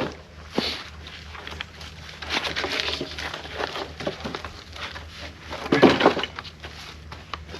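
Small ash firewood logs knocking and clattering against one another as a load is shifted and straightened, a string of irregular wooden thuds with the loudest about six seconds in.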